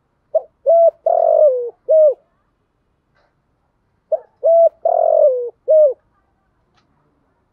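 Spotted dove cooing: two phrases about two seconds apart, each of four low notes. The third note of each phrase is longer and dips in pitch. This is a recorded lure call used to draw in wild spotted doves.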